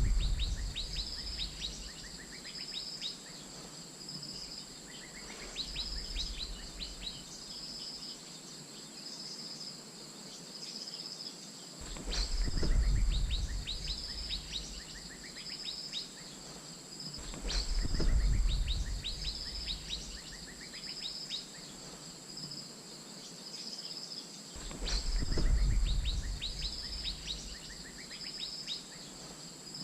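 Asian fairy-bluebird calls: short high notes repeated about once or twice a second, mixed with quick sharp calls, over a steady high insect drone. Low rumbles swell up three times, around 12, 18 and 25 seconds in, and are the loudest sound.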